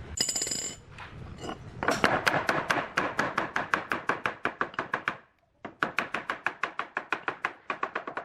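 Rapid, evenly spaced strikes on wood, about five a second, in two runs with a short break between them, as in woodworking with a hammer or mallet. A brief ringing, metallic-sounding tone comes just after the start.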